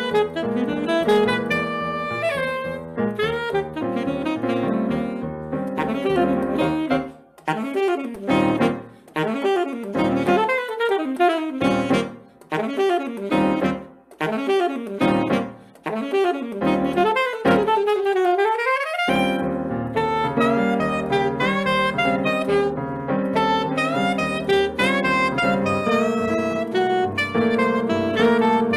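Saxophone playing a Brazilian piece live with piano accompaniment. About a third of the way in, the accompaniment falls away and the saxophone plays alone in short phrases broken by pauses, ending with a pitch glide down and back up. The full accompaniment comes back in near two-thirds of the way through.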